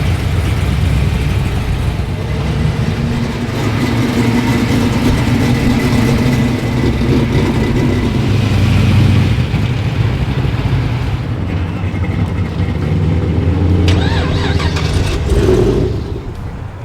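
Motor vehicle engine running loud and low, with a brief rev that rises and falls in pitch near the end, after which the sound drops away.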